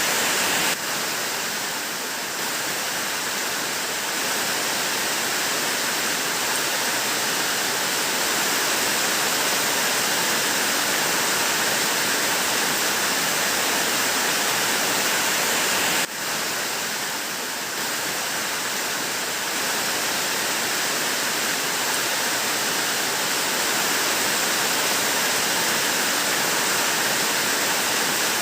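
Heavy rain falling steadily, an even rushing hiss. It dips briefly about a second in and again about halfway through.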